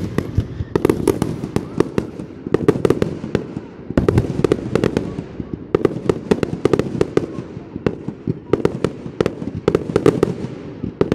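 Aerial fireworks shells bursting in rapid succession: a dense string of sharp bangs, several a second, coming in clusters.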